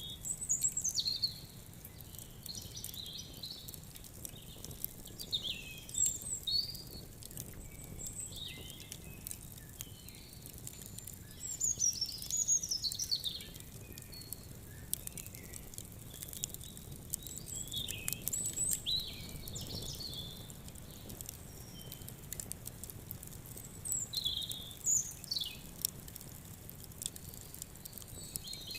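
Small birds chirping with short sweeping calls, repeated every few seconds, over the light crackle and snap of a wood fire.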